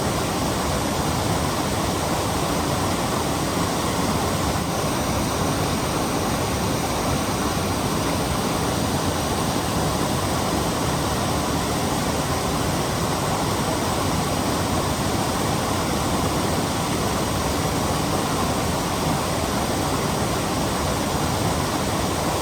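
Steady, unbroken rush of a waterfall, falling water pouring over rock.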